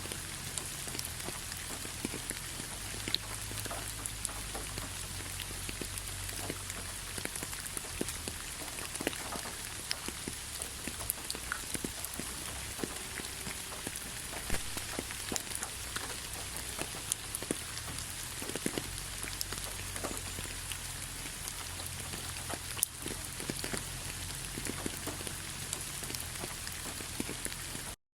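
Light rain falling steadily, an even patter dotted with many separate drop ticks. The sound cuts out for a moment near the end.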